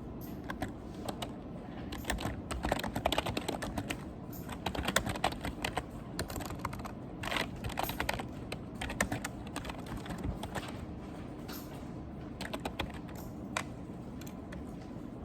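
Typing on a computer keyboard: irregular runs of key clicks with short pauses between them, over a steady low background hum.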